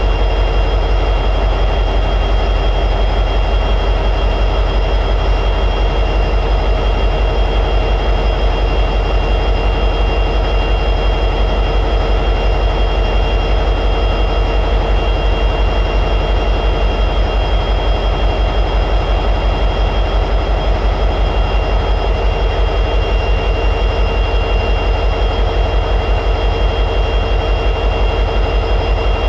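EMD 710G3B two-stroke diesel prime mover of an SD60E locomotive running steadily at high idle, a fast even low pulsing with a steady high-pitched whine above it.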